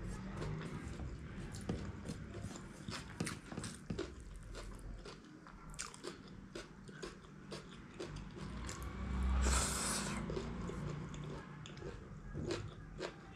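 Close-miked chewing of egg chow mein eaten by hand: many wet mouth clicks and lip smacks at an irregular pace, with one louder burst of breathy noise about nine and a half seconds in.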